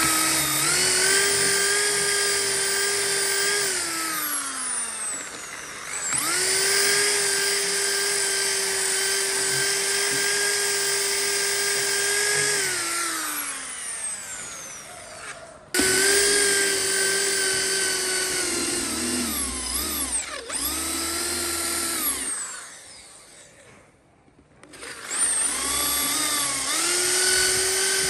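High-speed handheld power tool motor whining as it is switched on and off: four runs of several seconds each, the first three each falling in pitch as the motor spins down after release. Its pitch sags briefly in the third run, as if under load.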